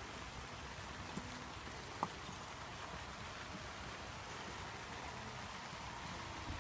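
Steady rain falling, with one sharp tap about two seconds in.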